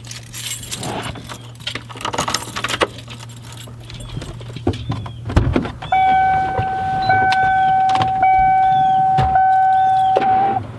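Ignition keys jangling and clicking, then about six seconds in a motorhome's dashboard warning tone sounds steadily, broken by a sharp click about once a second as the key is tried. The engine does not turn over: the battery is still too weak after two hours of charging, 'not even close'.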